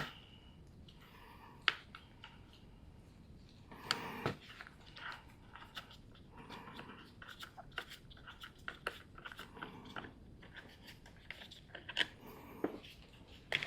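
Scattered small clicks and rattles of a chainsaw chain and bar being handled while the chain is worked back onto the bar and sprocket, with a sharp click about two seconds in and a louder clatter a couple of seconds later.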